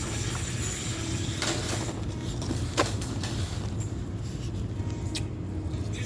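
Steady low hum of laundromat washers and dryers, with a few sharp crunches of ice being bitten, the loudest about three seconds in.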